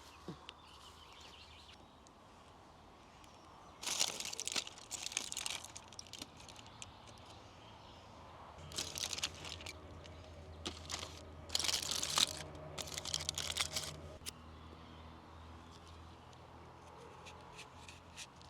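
Bursts of rustling, crinkling and crunching handling noise, the loudest around four seconds in and again from about nine to fourteen seconds in, with a low steady hum during the second stretch.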